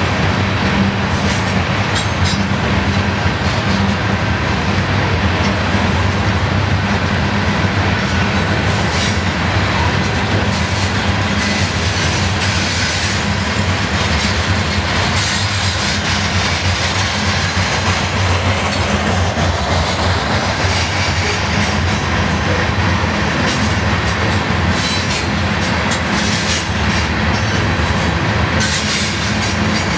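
Loaded hopper cars of a long freight train rolling past: a steady, loud rumble and rattle of wheels on rail, with scattered sharp clicks through it.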